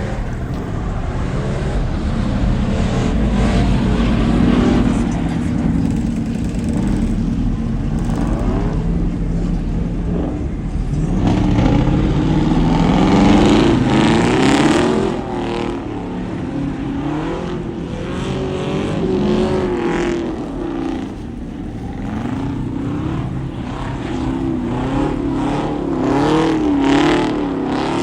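Loud truck engines revving, the pitch climbing and falling again and again, with the hardest revs about halfway through and again near the end.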